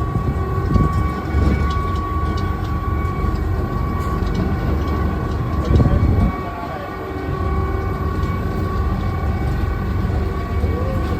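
Train running: a steady low rumble with a steady high whine and faint clicks, and a louder surge of rumble about six seconds in.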